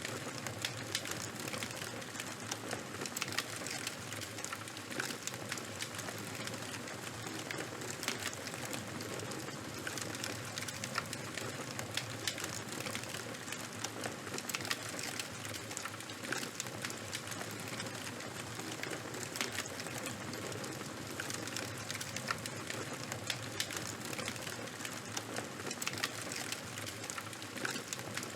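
Fire crackling steadily: frequent sharp pops and snaps over a constant hiss.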